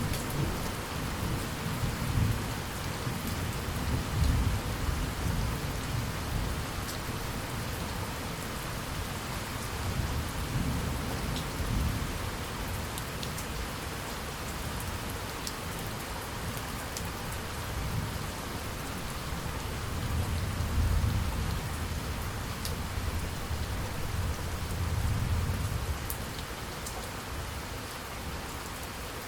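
Steady rain pattering, with low rolls of thunder that swell and fade several times, strongest about four seconds in and again about twenty seconds in.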